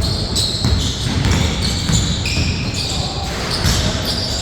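Basketball game play: sneakers squeak on the court in many short, high chirps, over the ball bouncing and players' footfalls.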